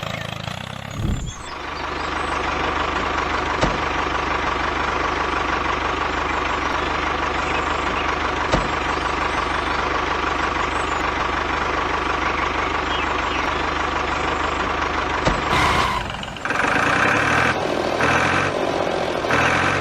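Mini tractor model running steadily, engine-like, with a few sharp clicks. The sound dips and changes to a pulsing pattern about sixteen seconds in.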